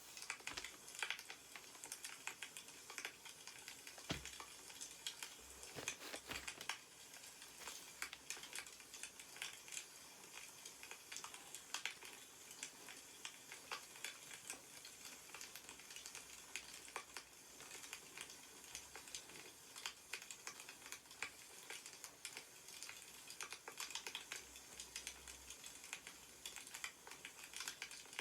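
Quiet, irregular crackling of burning firewood: small pops and clicks scattered throughout, with a few soft thumps around four and six seconds in.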